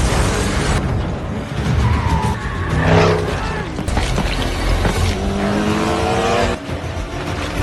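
Cars in a film car chase: engines revving with rising pitch and tyres squealing.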